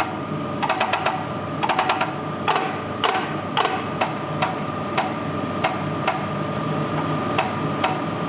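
D49 diesel fuel injector being fired on a test stand, giving sharp repeated pops about two a second over a steady mechanical hum. It opens at 320 but its spray is fragmented, so its nozzle is due for replacement.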